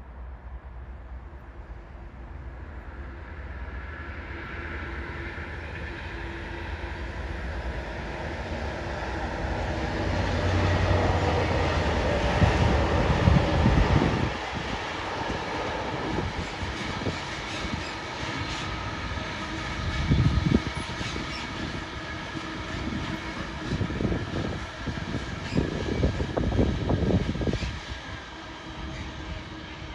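Diesel locomotive-hauled train approaching, its engine note growing steadily louder over about twelve seconds, then passing with repeated heavy knocks of wheels running over rail joints.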